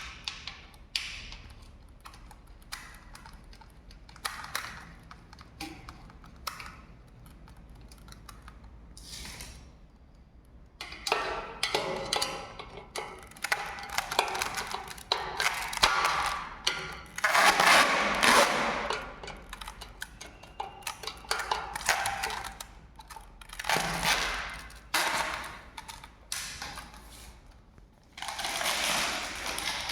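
Irregular clicks and knocks, then denser, louder scraping and clattering from about a third of the way in, like hands working with parts and tools.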